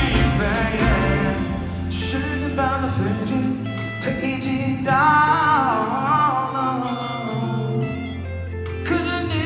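A pop ballad performed live by a band with singing, including guitar. About five seconds in, the vocal line turns into a wavering, ornamented run.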